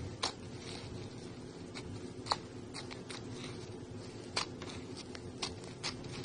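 Slime being squished and stretched by hand, giving irregular sharp sticky pops and clicks, about two a second, over a steady low hum.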